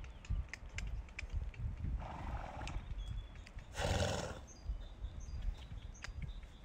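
Horses grazing, with low irregular crunching and thumps as grass is cropped, and two short breathy snorts about two and four seconds in. Small birds chirp faintly.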